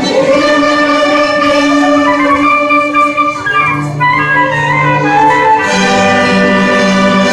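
A school orchestra playing classical music in sustained, held notes, with a short busier passage about halfway through.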